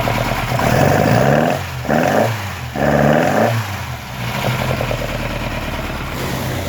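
Hillman Avenger rally car's rebuilt four-cylinder engine revved in three short blips, then running more steadily from about four seconds in, through an exhaust that has rotted out.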